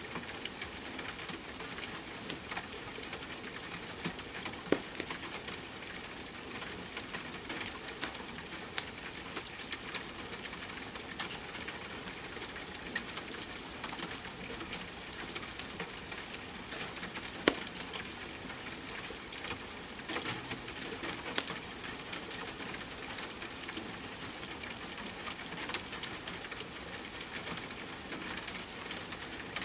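Wood fire crackling, with irregular sharp pops, two of them louder about five seconds in and near seventeen seconds in, over a steady hiss of rain.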